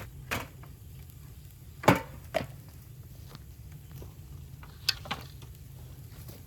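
Bamboo cracking with sharp, irregular snaps, five in all, the loudest about two seconds in, over a low steady rumble.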